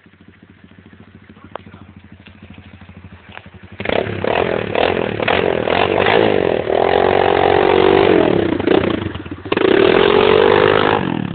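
250 cc motocross bike engine running with a quick steady putter, then revving loud from about four seconds in and held at high revs, its pitch rising and falling. The revs drop briefly just after nine seconds, then pick up loud again.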